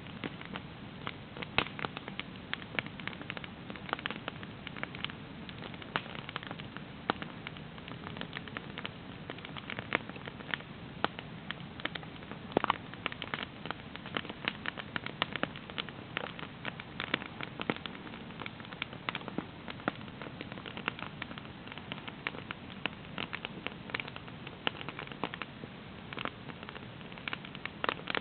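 Campfire burning, crackling with irregular sharp pops over a steady hiss.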